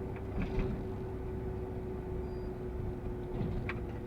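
Steady engine and road rumble inside the cabin of a moving GAZ Sobol 2752 van, with a constant hum and a couple of faint clicks.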